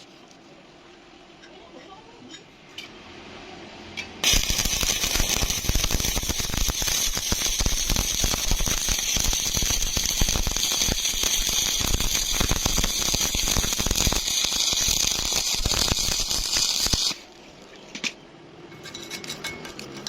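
Stick (SMAW) welding arc crackling steadily for about 13 seconds: it strikes sharply about four seconds in and cuts off suddenly near seventeen seconds, when the arc is broken. A few separate clicks follow near the end.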